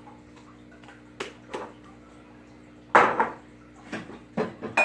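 Clicks and knocks of containers being handled and set down on a table: two light clicks, then a loud knock about three seconds in and a few more clattering knocks near the end, over a faint steady hum.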